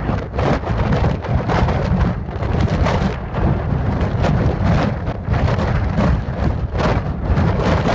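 Loud storm noise: a steady rumble of wind buffeting the microphone, with rain, surging in irregular gusts.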